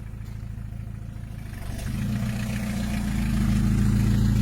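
A vehicle engine running with a steady low hum, growing louder and heavier about two seconds in as it is revved or put under load.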